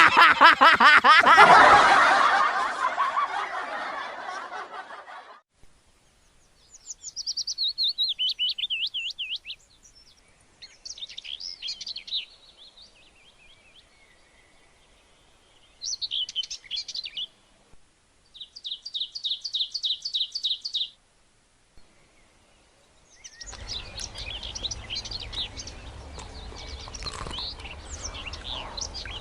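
A loud rushing sound that fades away over the first five seconds, then birds calling in four short, separate phrases of quick, high repeated notes. From about 23 seconds on, a continuous chorus of bird chirps over a low steady rumble.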